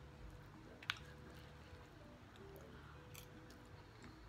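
Quiet chewing of food, with one sharp click about a second in.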